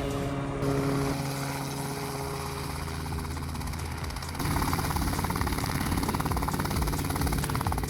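Piston-engine helicopter running, with fast, even rotor and engine pulsing; the sound steps up suddenly to a louder, closer level about halfway through.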